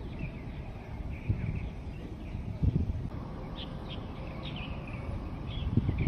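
Short bird chirps, several in quick succession in the second half, over an uneven low rumble of outdoor noise.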